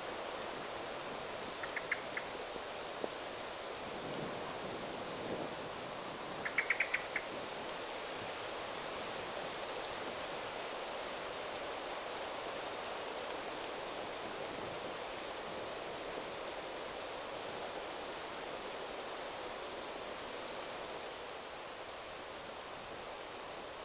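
Wind rustling through forest trees as a steady hiss, with small birds chirping: a short chirp about two seconds in, a quick run of louder chirps around seven seconds, and faint high twitters scattered throughout. The wind eases slightly near the end.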